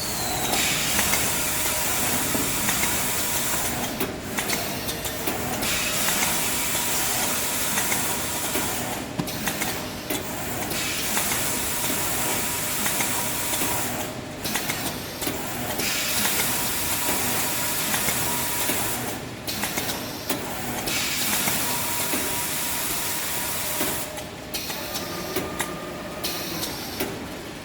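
Maxi roll tissue paper band saw cutting machine running: a loud hiss as the blade cuts through the paper logs, broken by short pauses about every five seconds between cuts, over a faint steady machine tone.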